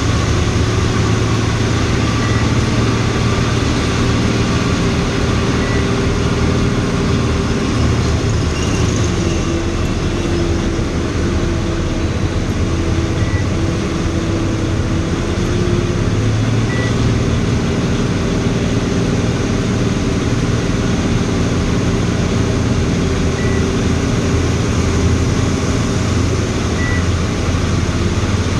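Tata Signa truck's diesel engine running steadily while driving, heard inside the cab with road noise. A faint short high beep repeats every few seconds.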